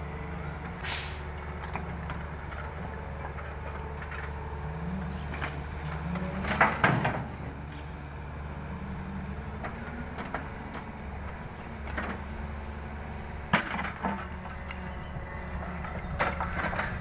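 Yanmar ViO50 mini excavator running steadily, its pitch rising twice as it is worked, with a few sharp knocks and clunks; the loudest comes about seven seconds in.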